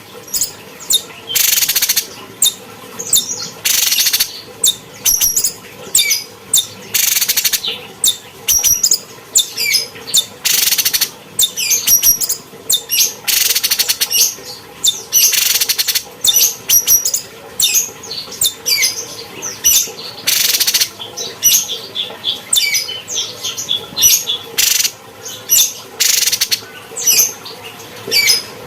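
Cucak cungkok singing continuously: a rapid string of loud, high, short chattering and whistled phrases, one to two a second, over a faint steady hum.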